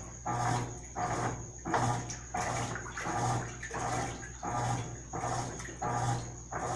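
Mabe Multiprática top-loading washing machine agitating a small load. The agitator swings back and forth in regular strokes, a little under two a second, each with a motor hum and water and clothes sloshing.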